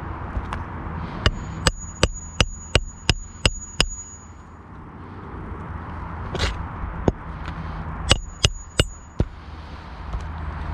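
Hammer driving roofing nails into shingles: a quick run of about seven strikes, each with a short metallic ring, then three more strikes a few seconds later.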